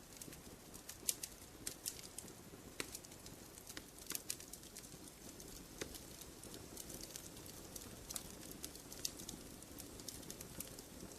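Wood fire crackling in a fireplace: irregular sharp snaps and pops, a few louder than the rest, over a soft low rumble of flame.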